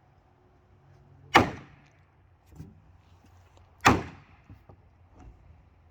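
Two hard blows on wood, about two and a half seconds apart, each a sharp knock with a short ringing tail, as a section of the wooden fence is knocked back straight.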